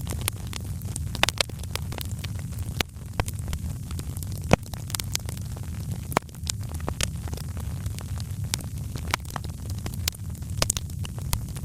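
Fireplace fire crackling: irregular sharp pops and snaps over a steady low rumble of flame, with one louder pop about four and a half seconds in.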